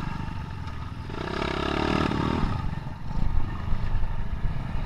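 Small trail motorcycle engines running at idle. About a second in, one is revved up and back down for about a second and a half, and near the end the engine sound grows louder and rougher.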